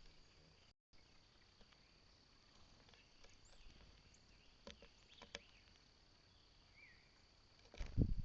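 Outdoor ambience with a steady high insect drone and a few faint, short bird chirps. A loud low thump sounds near the end.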